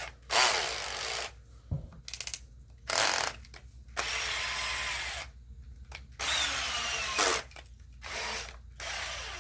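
Makita 12V max CXT cordless drill-driver running with no load in about five short trigger pulls, the motor spinning up and down each time. There is a quick run of clicks about two seconds in.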